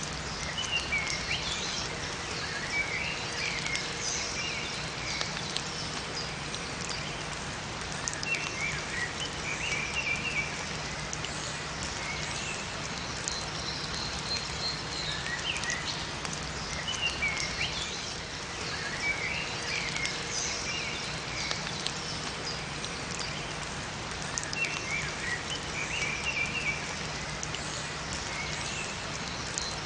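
Steady rain falling in a forest, with small birds chirping and calling in short phrases over it again and again.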